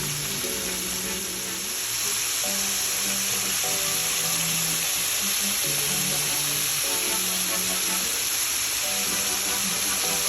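Background music with a simple melody over a steady sizzle of food frying in hot oil.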